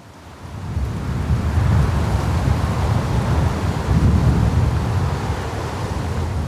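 Blizzard wind gusting hard against the microphone, a loud buffeting rumble that rises within about the first second and keeps surging.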